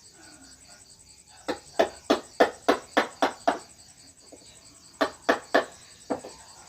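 Mallet tapping a wood-carving chisel: a run of about eight sharp taps at roughly three a second, then, after a short pause, three more and a single one near the end.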